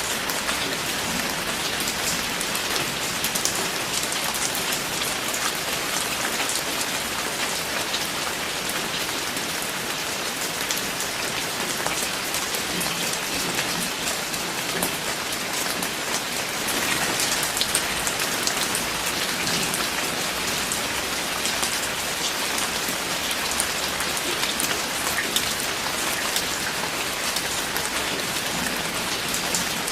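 Steady rain falling, with dense individual drops pattering on a surface.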